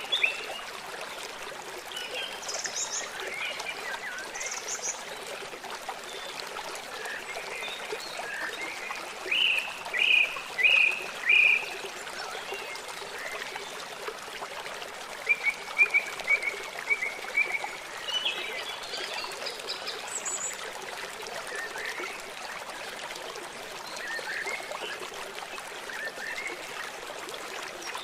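Songbirds chirping and calling over the steady rush of running water. Three loud chirps come about ten seconds in and a quick run of short notes a few seconds later, with scattered higher calls between.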